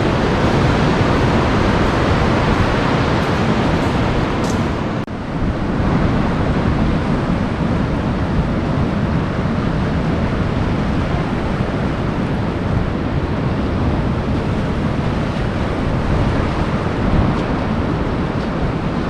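Steady ocean surf mixed with wind noise on the microphone, with a brief drop in level about five seconds in.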